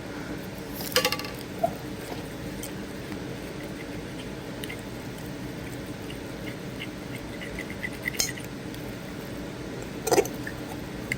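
A fork stirring pancake batter in a bowl, with faint ticks and a few sharp clinks of the fork against the bowl's side, about a second in and near the end.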